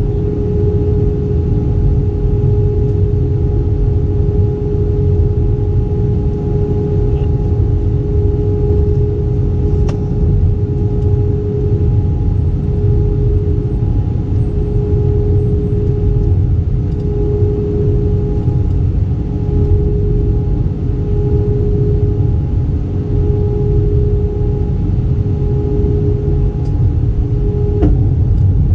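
Steady cabin drone of an Airbus A320 jet airliner, with a deep rumble and a constant engine hum, the sound of the aircraft under way. A couple of faint clicks come through, one about ten seconds in and one near the end.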